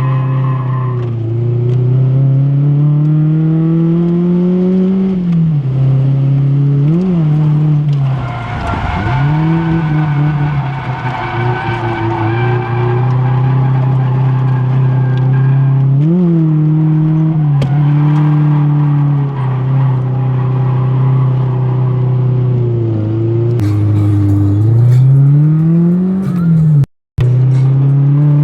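Drift car's engine revving hard, its pitch repeatedly climbing and then dropping sharply as the driver works the throttle, with tyre squeal and skidding noise, strongest about a third of the way in. The sound cuts out for a split second near the end.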